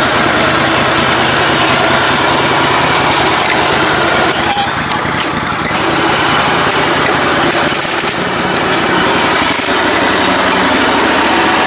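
The small engine of a lifted riding lawn mower runs steadily, easing off briefly about halfway through and again a little later.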